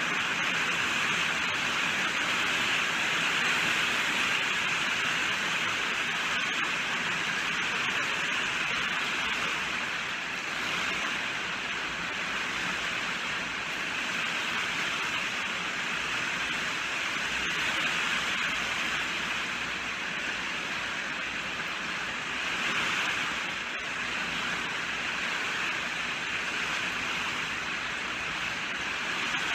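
Steady rainfall: a dense, even hiss of countless drops, easing slightly in strength now and then.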